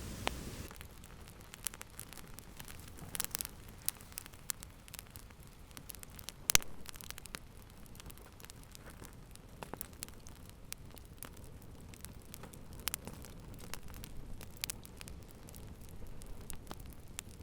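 Wood fire crackling in a fireplace: irregular sharp pops and snaps over a low steady hiss, with one loud pop about six and a half seconds in. A denser hiss cuts out within the first second.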